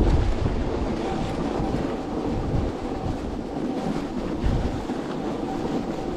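Wind buffeting the microphone over the rumble of an electric skateboard's wheels rolling on a snowy road, with a faint thin whine coming and going.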